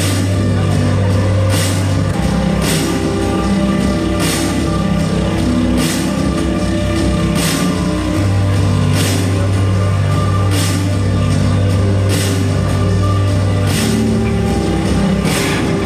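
Live band playing: long held low notes that shift every few seconds under guitar chords, with a steady drum beat marked by regular cymbal or drum hits.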